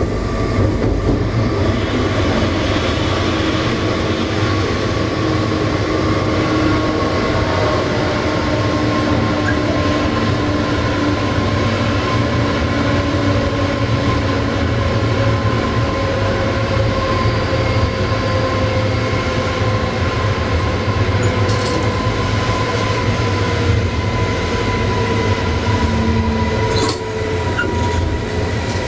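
Electric passenger train running at speed, heard from the driver's cab: a steady rumble of wheels on rail with whining tones that slowly fall in pitch, and a couple of brief clicks near the end.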